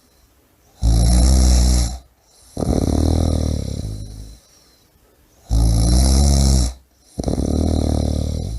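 A person snoring: four loud, rattling snores of one to two seconds each, with short quiet gaps between breaths.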